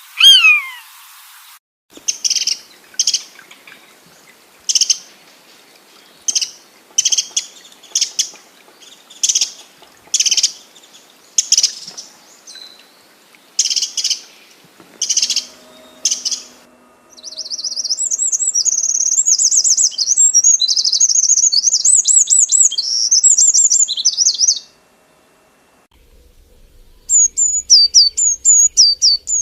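Several birds calling in turn. It opens with one loud falling cry, then short sharp chirps repeat about once a second. A rapid, high twittering warble follows for about eight seconds, and after a short gap comes a quick run of high falling notes near the end.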